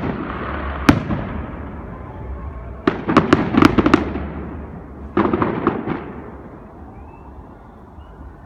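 Fireworks exploding: a single sharp bang about a second in, then two rapid volleys of bangs around three and five seconds in, each trailing off in crackle and echo that fades toward the end.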